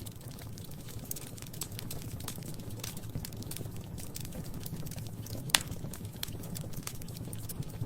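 Wood fire crackling in a fireplace: a steady scatter of small crackles over a low rumble, with one loud pop about two-thirds of the way through.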